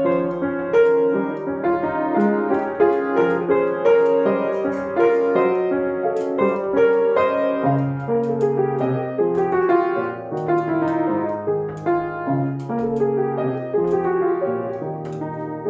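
Solo piano music: a melody over held chords, note after note with a gentle pulse.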